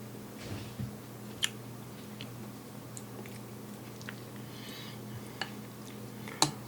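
A person chewing a soft rice-and-egg dish, with small mouth clicks and a few light sharp clicks, over a steady low hum.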